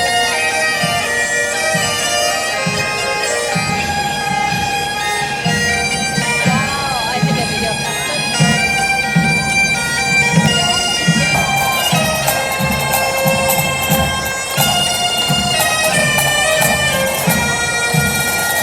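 Bagpipes playing a melody over a steady drone, with a regular drum beat about twice a second underneath.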